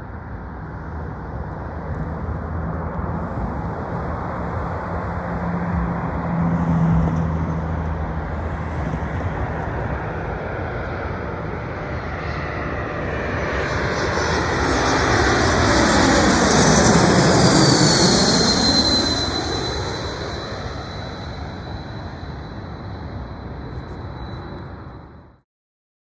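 Airbus A220-300 jet passing overhead: the jet engine noise builds to a peak about two-thirds of the way through, with a high whine that drops in pitch as it passes and then holds steady. The noise then fades and cuts off suddenly near the end, over a steady low hum in the first half.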